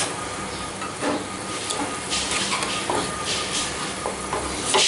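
Spiced onion-and-yogurt masala sizzling in hot oil in a frying pan, with a wooden spatula stirring and scraping through it several times. The masala is fried down to the stage where the oil separates from it.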